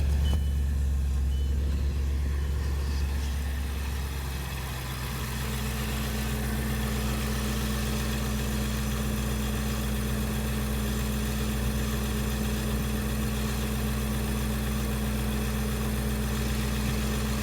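Audi RS6 engine idling after a cold start, a steady low drone. About four to five seconds in, the note shifts and settles into a steadier idle.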